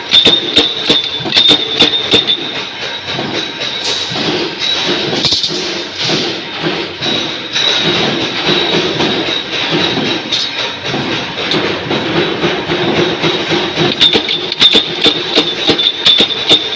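Power punch press stamping wing-shaped washers from 2.3 mm thick stock, its strokes landing about three to four times a second as a rhythmic metallic clatter over a steady high whine. The strokes are sharpest at the start and near the end and blur together in the middle.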